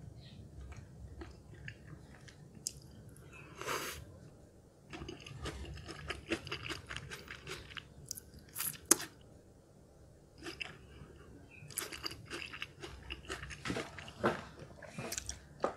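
Close-miked chewing of a mouthful of food: a run of short, wet mouth clicks and smacks, with a couple of brief quieter pauses.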